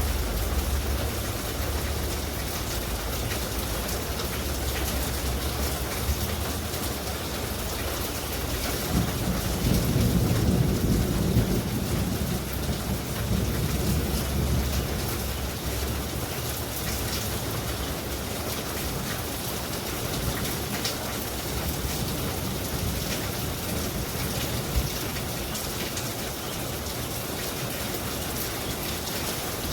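Rain falling steadily in a storm, with a low rumble of thunder that swells about ten seconds in and dies away by the middle.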